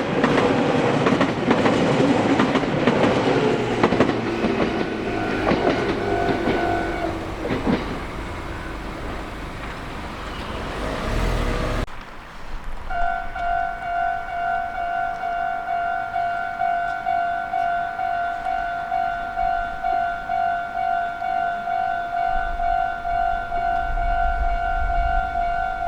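A Meitetsu train passing over a level crossing, its wheels clattering over the rail joints with some squeal, dying away over about twelve seconds. Then, suddenly, the crossing's electronic alarm bell rings its steady, even 'kan kan', about three rings every two seconds.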